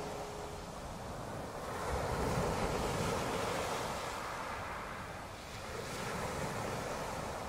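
Ocean surf washing in, swelling about two seconds in and again near the end, with wind noise on the microphone.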